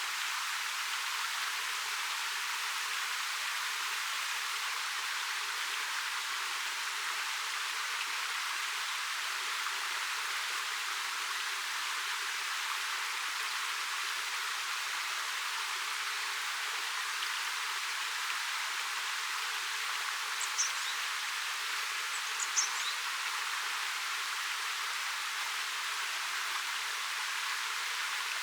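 Ariake Falls, a 13 m waterfall, rushing steadily as water pours over its rock face, a bright even hiss with little low rumble. Two brief high chirps cut through about two-thirds of the way in.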